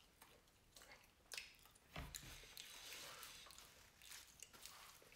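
Faint chewing of french fries: soft wet mouth clicks and smacks at irregular intervals, with a soft low thump about two seconds in.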